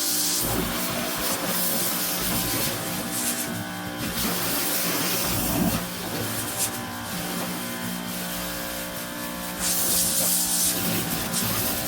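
Water spraying onto a boat's deck and seats in sweeps, the hiss swelling and fading several times, over a steady hum.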